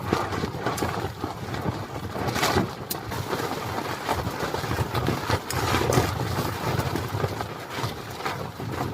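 Strong gusting wind buffeting a camping tent, with a steady low rumble and the tent fabric flapping and snapping now and then.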